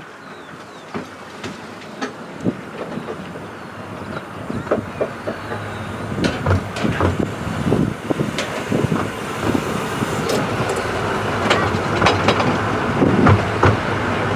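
Miniature railway train running, heard from a passenger carriage: wheels rumbling and clicking over the rail joints, growing louder as it goes.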